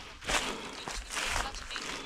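Footsteps through forest undergrowth, a few irregular footfalls with rustling and crunching of vegetation underfoot.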